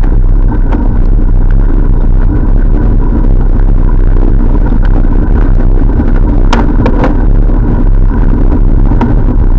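Loud, steady rumble of riding noise on a camera carried on a moving bicycle, with a few sharp clicks or knocks, most clearly about six and a half and seven seconds in.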